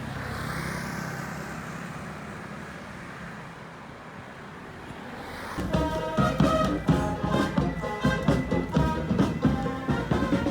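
Steady road noise from a moving vehicle, slowly easing off. About five and a half seconds in, background music with a quick, strongly accented beat comes in and takes over.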